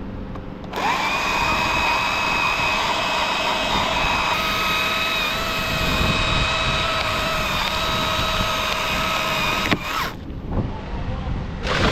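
Chainsaw revving up about a second in and running at full throttle with a steady pitch for about nine seconds while cutting a limb, then cutting off suddenly, with a brief rev near the end.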